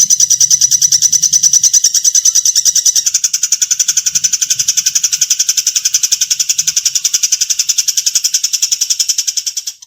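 Songbird giving a harsh, rapid trill of high notes, about ten a second. About three seconds in it shifts to a lower, fuller note, and it cuts off abruptly near the end.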